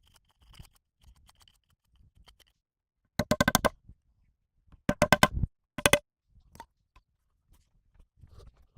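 Three quick runs of sharp, ringing knocks, several strokes in rapid succession each time, a little over three seconds in, again near the middle, and once more briefly just after; faint scrapes and ticks between.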